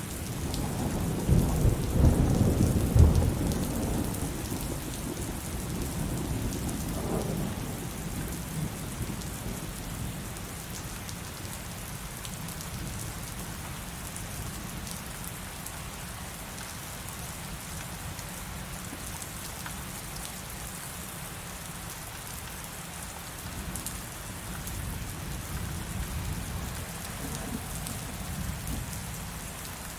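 Heavy rain falling steadily, with a thunderclap about a second in whose low rumble peaks over the next two seconds and rolls away over several more.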